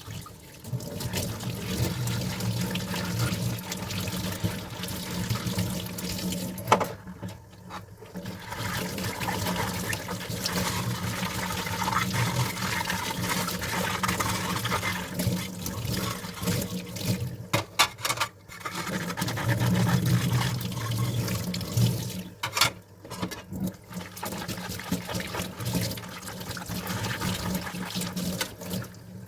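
Tap water running and splashing over dishes in a sink, breaking off briefly three times, with a few sharp knocks of dishes against each other.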